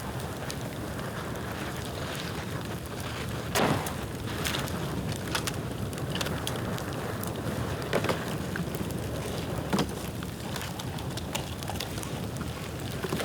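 Bonfire of dry bamboo burning: a steady rush of flames, broken by sharp crackles and pops, the loudest about three and a half, eight and ten seconds in.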